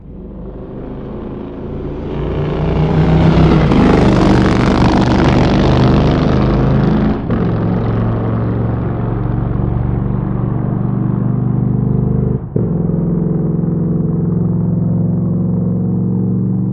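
Motorcycle engine running, building from quiet to loud over the first few seconds, then holding a steady pitch, with two brief sharp drops in level about seven and twelve seconds in.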